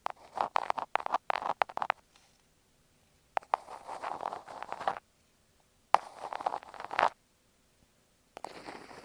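Thumbtacks scratched and tapped against an earphone microphone, very close: a run of quick sharp clicks and short scratches over the first two seconds, then three longer scratching passes with silent pauses between them.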